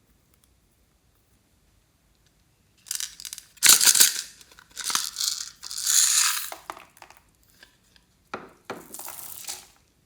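Several bursts of crinkling, tearing noise starting about three seconds in, the loudest near four and six seconds in.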